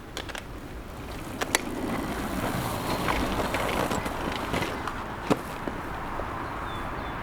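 A bicycle rolling, with tyre noise and wind on the microphone swelling for a couple of seconds and a few sharp clicks, about 1.5 and 5 seconds in.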